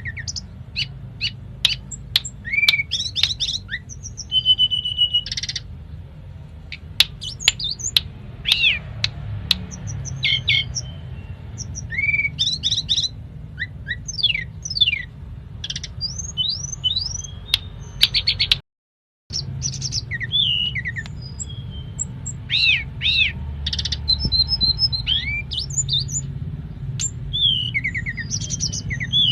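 Tledekan gunung songbird singing continuously in a fast, varied string of short whistles, down-slurred notes and sharp clicks, its song filled with mimicked phrases of other birds such as the cimblek and canary. A steady low hum lies underneath, and the sound cuts out for about half a second two-thirds of the way through.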